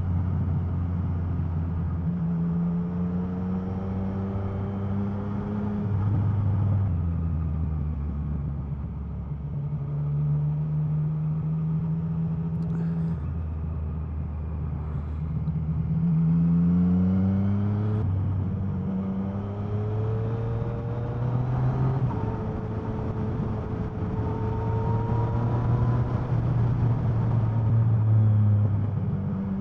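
Motorcycle engine under way, heard from the bike's own camera, its pitch climbing and falling with throttle and gear changes through the bends. About two-thirds of the way through it revs up sharply, then drops as a gear is changed, over a steady rush of wind.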